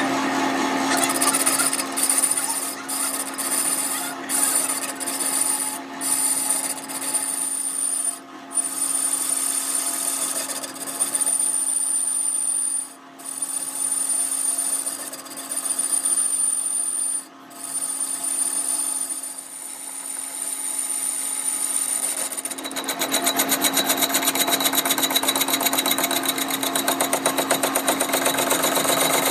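Workshop power tool running with a steady hum while rubbing and abrading the metal pulley, broken by a few brief pauses. About three-quarters of the way through it turns louder, with a fast, even pulsing.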